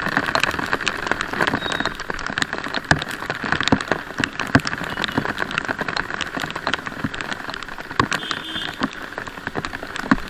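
Heavy rain falling, with many sharp taps of drops striking close by over a steady hiss.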